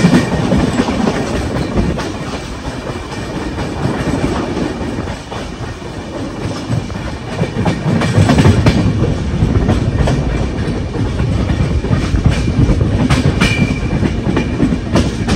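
Passenger train running at speed, heard from the open door of a moving coach: a steady rumble of wheels and rushing air, with clickety-clack as the wheels cross rail joints and points, in clusters about halfway through and near the end.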